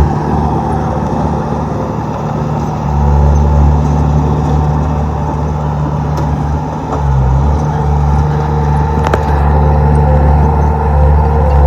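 Komatsu D31P bulldozer's diesel engine running steadily, its note easing twice as the load changes. A single sharp clank about nine seconds in.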